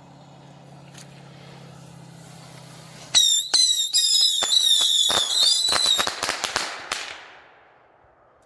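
A steady low hum, then about three seconds in a volley of bottle rockets going off: several shrill whistles overlapping, with a rapid string of sharp pops and cracks. It lasts about four seconds and fades out near the end.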